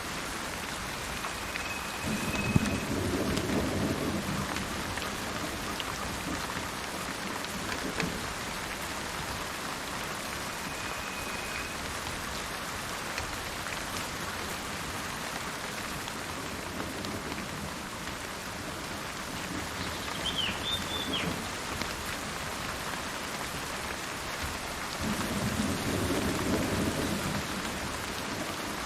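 Steady rain falling, with two low rolls of thunder, one a couple of seconds in and another near the end. A bird calls a few times with short thin whistles and one brief chirping phrase.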